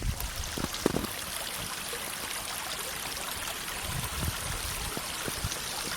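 Small stream running over stones, a steady rush of water, with a few soft low thuds about a second in and again later.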